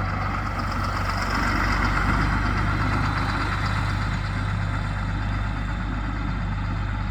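John Deere 4455 tractor's 7.6-litre six-cylinder diesel engine running at a steady idle, swelling slightly about two seconds in and then settling.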